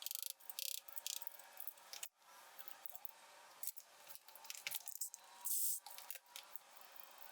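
Scattered light clicks and short rustles of small metal parts being handled, typical of engine bolts being sorted by hand.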